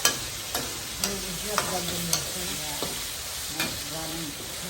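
Chili frying in a pan with a steady sizzle while it is stirred, a utensil clicking against the pan about half a dozen times.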